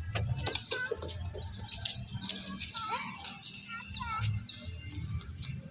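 Small birds chirping in the trees: a string of short, high, falling whistled notes repeated every half second or so, over a steady low background rumble.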